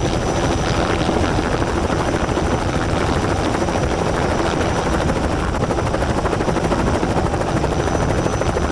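Helicopter running close by, a loud steady rotor chop. It cuts off suddenly at the end.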